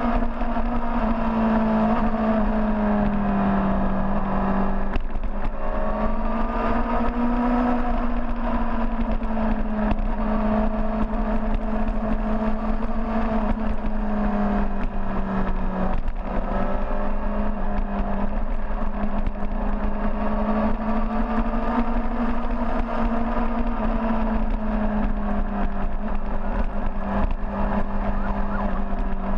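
Large motorcycle engine running steadily on the move, its pitch rising and easing gently every few seconds with the throttle, over a low rumble.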